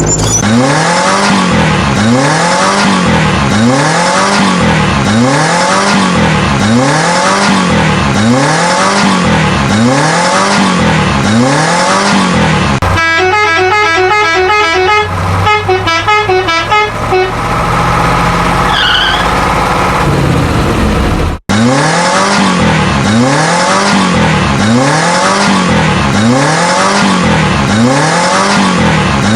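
A looped electronic sound effect: one wail rising and falling in pitch about once a second, repeated unchanged. About 13 seconds in it gives way to a short beeping electronic tune. It cuts back in abruptly about 21 seconds in.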